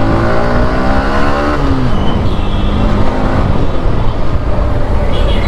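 Yamaha R15 V3's single-cylinder engine accelerating, its pitch rising for about a second and a half and then dropping away, followed by the engine running steadily at road speed.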